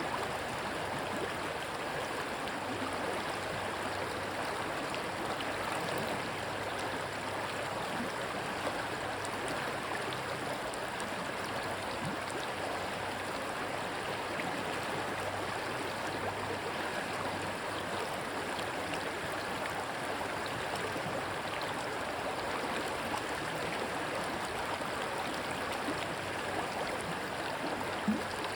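Rushing water running steadily, with one brief tap near the end.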